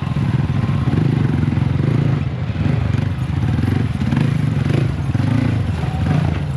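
Yamaha MT-15 motorcycle with an Akrapovic exhaust running steadily under way, a continuous low engine and exhaust drone.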